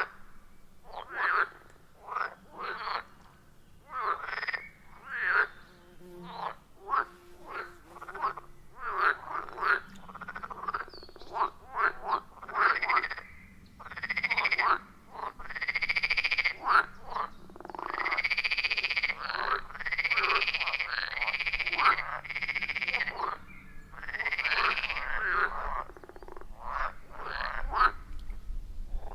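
Chorus of frogs calling at a pond: many overlapping short croaks, with longer drawn-out calls of about a second each through the middle stretch.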